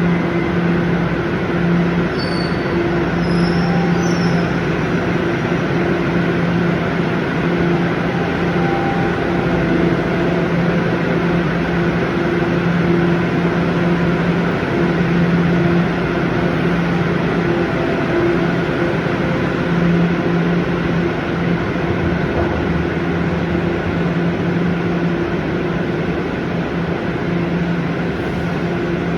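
TTC Line 1 subway train running between stations: a steady rumble of wheels on rail with a constant motor hum, and a few faint high wheel squeals a few seconds in.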